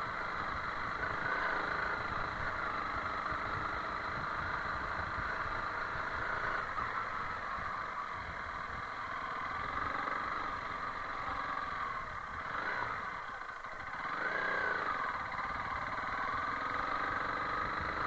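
Honda CRF300L Rally's single-cylinder four-stroke engine running as the bike is ridden along a rough dirt track, its note rising and falling with the throttle. The engine eases off briefly about thirteen seconds in, then picks up again.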